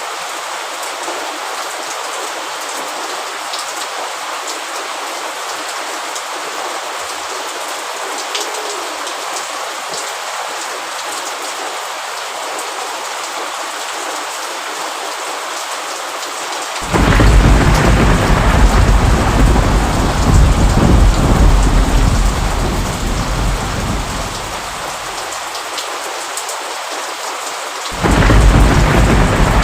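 Steady heavy rain falling, with a roll of thunder that breaks in suddenly about halfway through and rumbles for several seconds before fading. A second roll of thunder begins sharply near the end.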